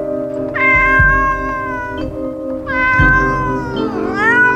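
A domestic cat meowing three times: two long, level meows, then a third near the end that dips and rises in pitch. Background music with a steady beat plays underneath.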